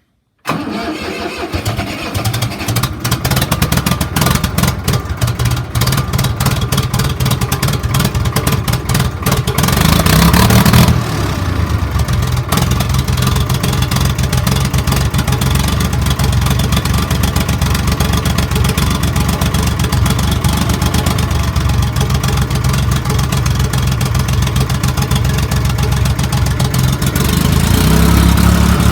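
Case IH 485 tractor's three-cylinder diesel engine starting cold: it catches about half a second in and runs unevenly for roughly ten seconds, revs up briefly, then settles into a steady idle that picks up a little near the end. The engine is cold and hadn't been run for two or three days.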